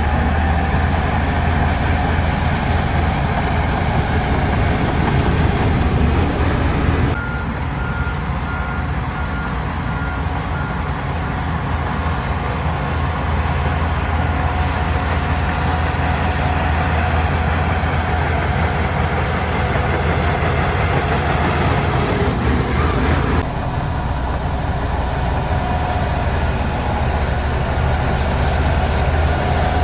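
Heavy diesel engines of a crawler bulldozer and dump truck running steadily at work. About seven seconds in, a reversing alarm beeps for a few seconds. The sound shifts abruptly twice.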